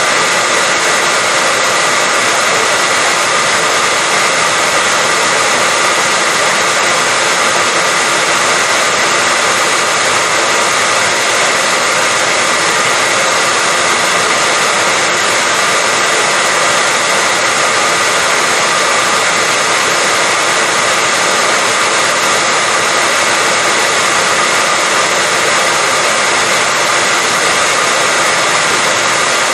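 Hair dryer running continuously: a loud, steady rush of blown air with a faint steady whine from its motor, unchanging throughout.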